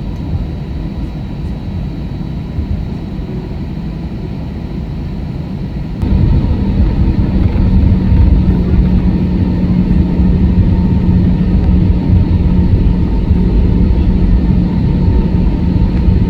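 Airbus A321 cabin noise on the ground before takeoff: a steady low engine and airframe rumble that suddenly steps up louder about six seconds in, when a steady low hum joins it.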